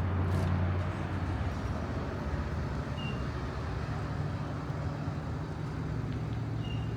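Steady low rumble of a motor vehicle's engine running. Two short high chirps come about three seconds in and near the end.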